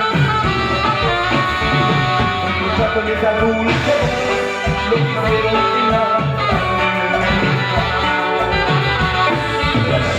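Live band playing Latin dance music with a steady beat.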